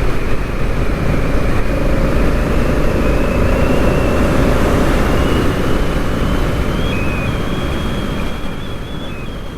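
Honda Africa Twin motorcycle riding along: a steady engine rumble with road and wind noise, fading out near the end.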